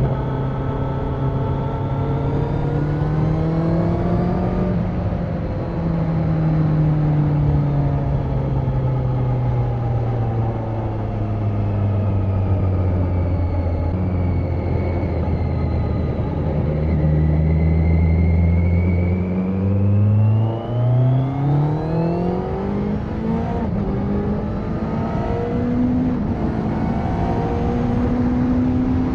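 Kawasaki Z900 (2020) inline-four with the catalytic converter removed, running under way. The revs rise for the first few seconds, then drop at a gear change and fall slowly for a long stretch as the bike slows. About two-thirds through they rise in a few quick steps, then climb steadily again under acceleration.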